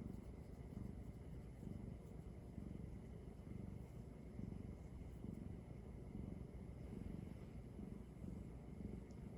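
Domestic cat purring close up: a low, steady rumble that swells and eases about once a second with the cat's breathing.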